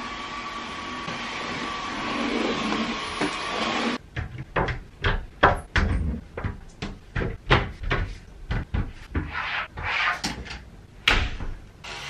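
A steady rushing noise, then a run of irregular knocks and clunks, about two a second, from a glass shower door and things in the bathroom being handled.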